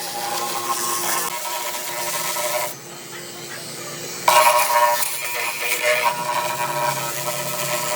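A power tool's motor running with a steady whine. It drops away abruptly about a third of the way in and comes back suddenly and louder a second and a half later.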